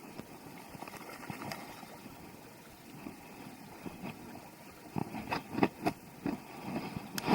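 Footsteps and movement on creek rocks and gravel over a steady background hiss, with a cluster of louder knocks about five to six seconds in.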